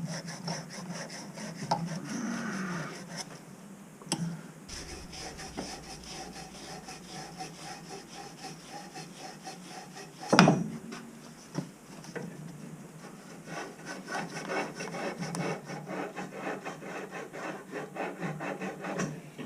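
Copper pipe being sanded by hand before a ProPress fitting, rapid back-and-forth rasping strokes of abrasive cloth on the metal. A single sharp knock about ten seconds in.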